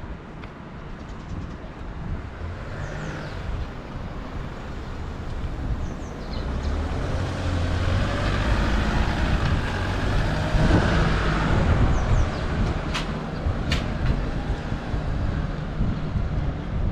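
Street ambience in strong wind: a vehicle passes, growing louder about halfway through, while wind buffets the microphone. Two sharp clicks come near the end.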